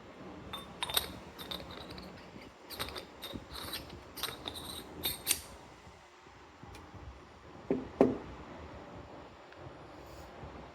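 Light clicks and clinks of small metal hand coffee grinder parts being handled, then two louder knocks close together about eight seconds in.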